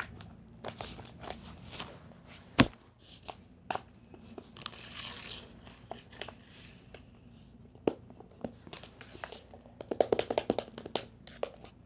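Close handling noises: scattered small crackles, clicks and taps, with one sharp knock about two and a half seconds in and a quick run of crackles about ten seconds in.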